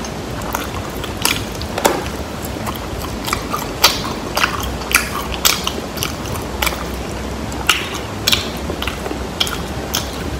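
Close-miked chewing of crispy fried chicken wings: irregular sharp crunches and clicks of the fried skin between the teeth, several a second at times, over a low steady hum.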